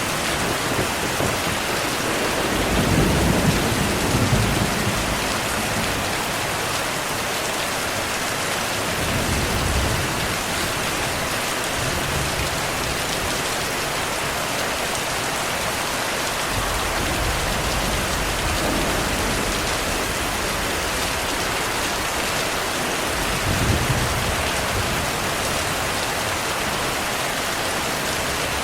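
Heavy, steady rain with low rolls of thunder rumbling under it several times, the strongest about three seconds in and a short one near the end.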